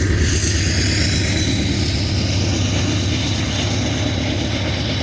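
Diesel freight locomotive (CN AC44C6M rebuild) running past close by: a loud, steady engine rumble with wheel and rail noise.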